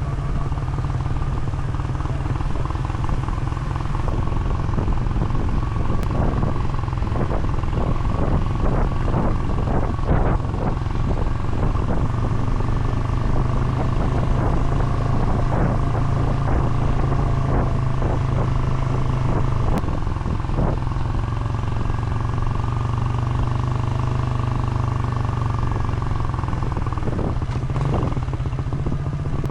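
A vehicle engine running steadily on the move, with road and wind noise and a stretch of rattling knocks partway through.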